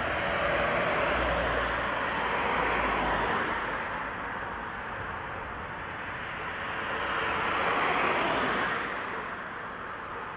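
Road vehicles passing close by: tyre and engine noise swells and fades twice, the second pass dropping in pitch as it goes by.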